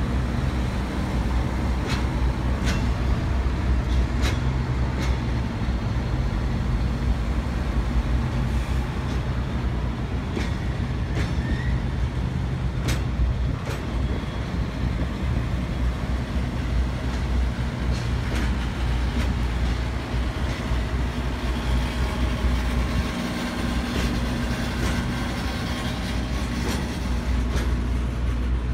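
Freight train of refrigerated containers rolling past, with scattered sharp clicks from the wheels and wagons over a steady low hum from the containers' running diesel gensets.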